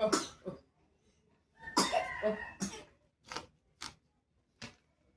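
A person coughing: a cough at the start, a longer rough fit of coughing a little under two seconds in, then three short coughs.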